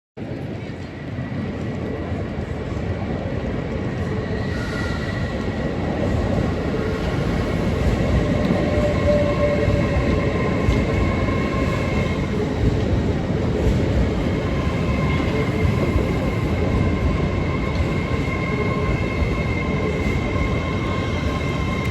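A train running close by: a steady rail rumble that cuts in abruptly and builds slightly over the first several seconds, with faint thin high-pitched tones above it.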